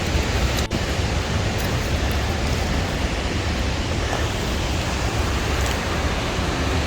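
Steady, dense rushing roar of a waterfall, strongest in the low end, with a brief dropout less than a second in.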